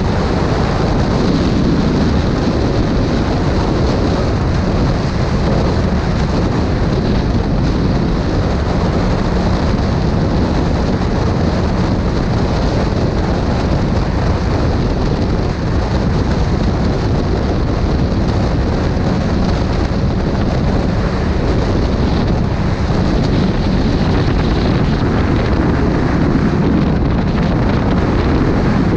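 Wind buffeting the microphone of a camera on a moving motorcycle, with the motorcycle's engine running steadily underneath at a constant speed.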